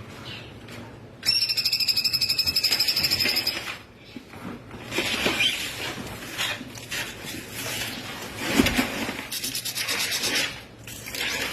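Cungkok bird singing in 'tembakan' style: a loud, rapid pulsing trill lasting over two seconds, then harsh, scratchy rasping calls and another fast pulsed run near the end.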